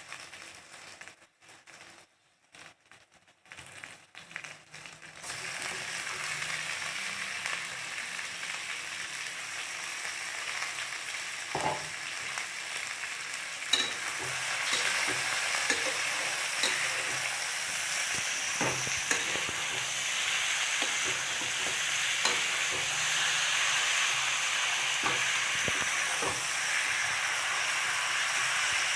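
Chicken pieces frying in a pan of hot oil and onion masala: a steady sizzle that starts about five seconds in and grows a little louder, with occasional sharp knocks of a stirring spoon against the pan.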